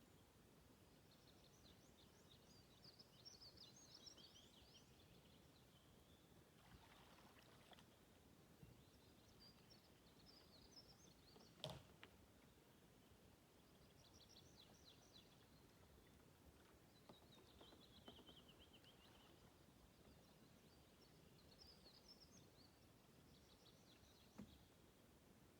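A songbird singing faint, repeated short trilled phrases every few seconds against quiet outdoor background noise. There is a single sharp click about halfway through.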